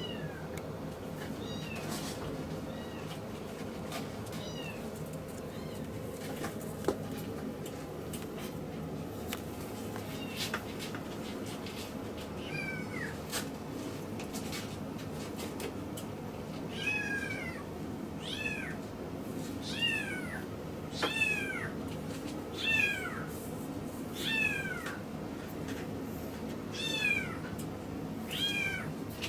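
Miniature Schnauzer puppy whining: short, high, falling cries, a few scattered at first, then about one every second from about halfway on, over a steady low background hum.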